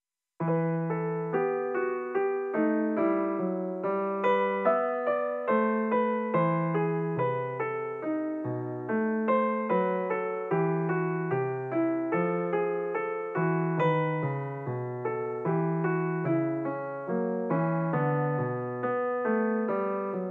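Background music played on a piano-like keyboard: a steady run of struck notes over lower bass notes, starting about half a second in.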